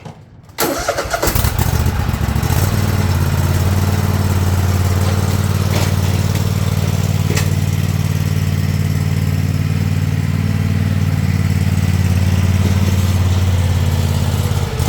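Tractor engine starting about half a second in and then running steadily at a low, even pitch.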